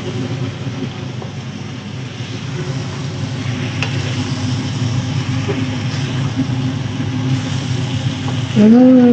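Tofu and green beans in red chili balado sauce frying in a nonstick wok while being stirred with a wooden spatula, over a steady low hum.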